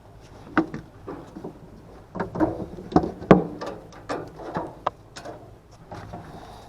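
Irregular knocks, clicks and clatter of parts and tools being handled on an HVAC unit, loudest about three seconds in, over a low steady hum.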